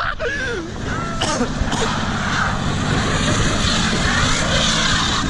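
A pickup truck's engine running steadily, with a rushing hiss laid over it that grows louder after about two seconds. A couple of brief voice sounds come near the start.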